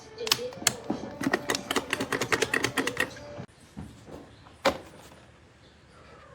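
Rapid mechanical clicking, about five or six clicks a second over a faint steady hum, that stops abruptly about three and a half seconds in, followed about a second later by a single sharp click.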